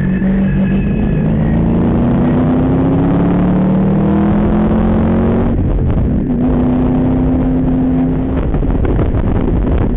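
Ford Mustang engine heard from inside the cabin under hard acceleration, rising in pitch for about five seconds. A brief break near six seconds is a gear change, and the engine then holds a steadier, lower note before fading into road and wind noise.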